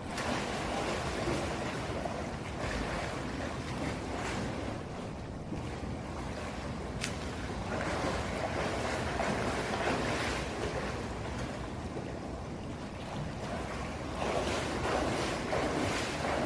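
Swimming-pool water splashing and churning from swimmers kicking, swelling and easing every second or two. A single sharp click about seven seconds in.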